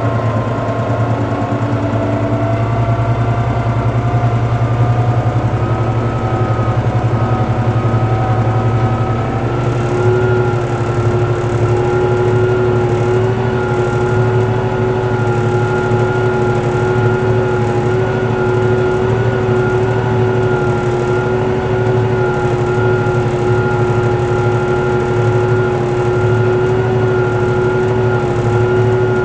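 Tractor engine running steadily under load while pulling a four-furrow plough, its pitch creeping up over the first ten seconds or so and then holding even.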